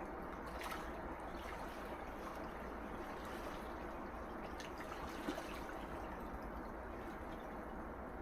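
Gentle sea waves washing on the shore in a steady, even wash, with faint trickling and fizzing of water and a small splash about five seconds in.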